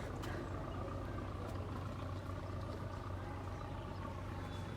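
A houseboat's engine running with a steady low hum.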